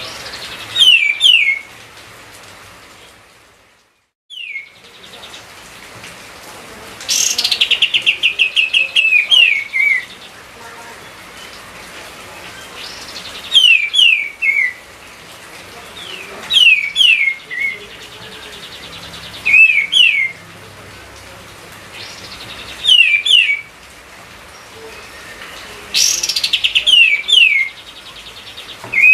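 A kapas tembak songbird singing loud, repeated short phrases of two or three quick, falling whistled notes about every three seconds. Some phrases open with a fast, rattling trill. It is the vigorous full song the bird is kept and recorded for.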